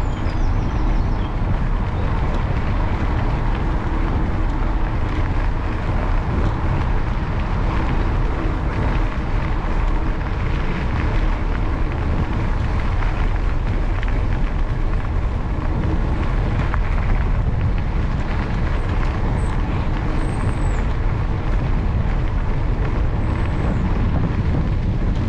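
Mountain bike rolling steadily along a canal towpath: constant tyre rumble with wind buffeting the bike-mounted camera's microphone, heavy in the lows. A few faint high chirps come through near the end.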